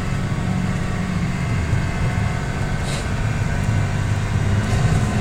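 Cummins diesel engine of a 2015 Blue Bird Vision school bus running with a steady low drone.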